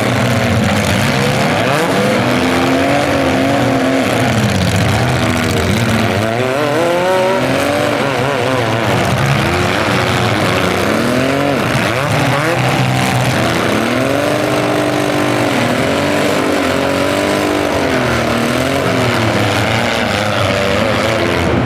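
Several compact demolition-derby cars' engines revving hard and easing off again and again, overlapping one another as the cars accelerate and reverse around the arena.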